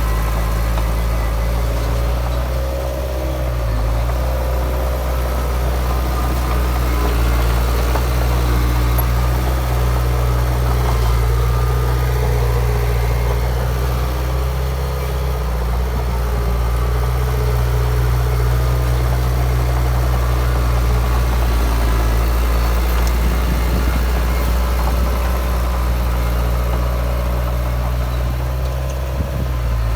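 Heavy diesel engine of earthmoving machinery running steadily at a low, even speed. Its hum holds level, with slight dips in pitch a few times.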